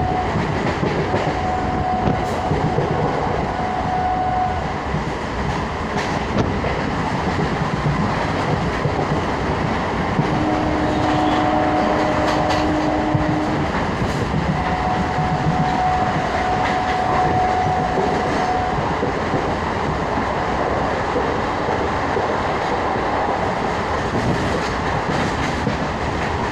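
Electric suburban local train (EMU) running at speed, heard from inside the carriage: a steady rumble of wheels on the track, with a thin steady tone that comes and goes several times.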